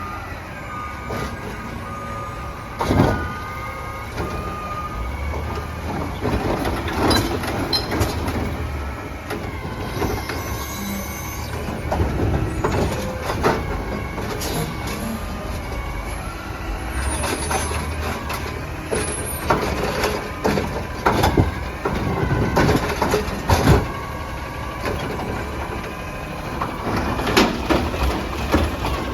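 Autocar ACX garbage truck working its route: the engine runs steadily while sharp metallic clanks and bangs come again and again, the loudest about three seconds in. A steady tone sounds over it for the first few seconds.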